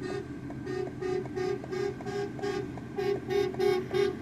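Railroad crossing warning bell ringing in rapid, even strokes, about three a second, at a crossing that is malfunctioning.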